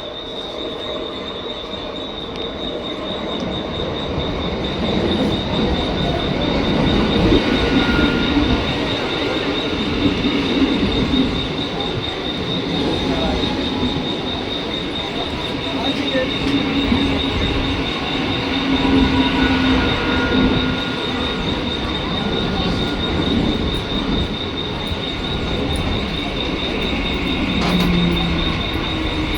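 Indian Railways train running past on the rails, growing louder over the first several seconds and then rumbling steadily, with brief wheel squeals. A steady, high, rapidly pulsing tone sounds underneath.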